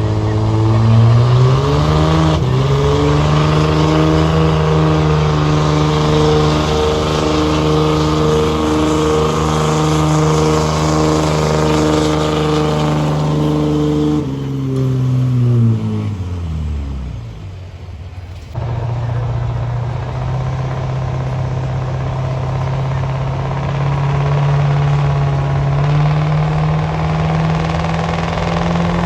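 Diesel pulling truck engine at full throttle, rising to high revs in the first couple of seconds and holding there steadily, then dropping off throttle and winding down about fourteen seconds in. A few seconds later a steady engine sound comes in abruptly and runs on.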